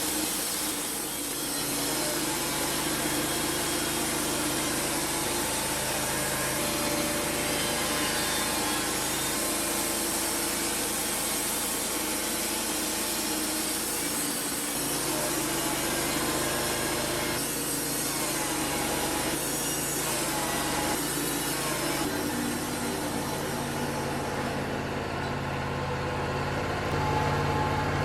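Wood-Mizer LT35 portable band sawmill cutting through cedar: a steady hiss of the band blade in the wood over the drone of the mill's engine under load. A few seconds before the end the cutting hiss fades and the engine runs on, its low hum getting louder, as the blade comes out of the cut.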